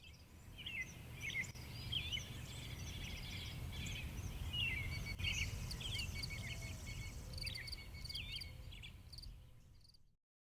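Several songbirds chirping and trilling over a low steady rumble, fading in at the start and fading out just before the end.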